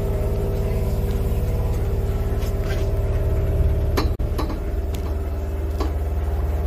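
Steady low rumble and hum inside a train carriage, with a few light clicks about four to six seconds in.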